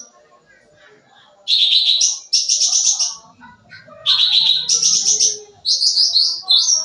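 Cucak ranting songbird in full song: three loud phrases of rapid, high, chattering notes, starting about a second and a half in after a short pause.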